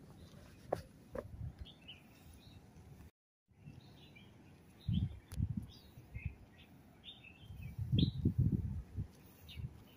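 Small birds chirping in short, repeated high calls throughout, with a few low rumbling thumps about five and eight seconds in. The sound cuts out completely for a moment about three seconds in.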